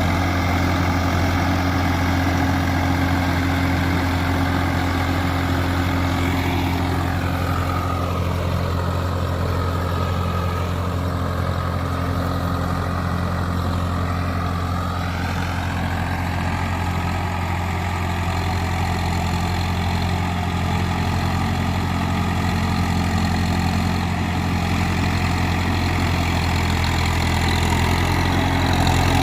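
Swaraj 744 FE tractor's three-cylinder diesel engine running steadily. A fainter, higher whine drops in pitch and rises back again through the middle.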